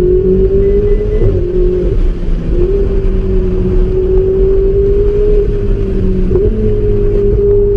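A car engine held at high revs, its note nearly steady with a few brief dips, over a steady low rumble, as in a car held sideways in a powerslide.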